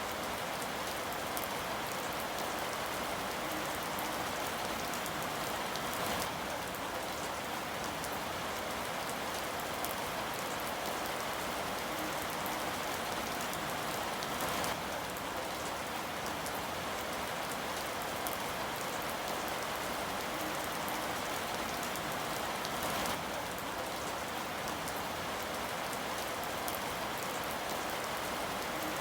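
Steady rain falling, an even hiss, with a few brief slightly louder spatters.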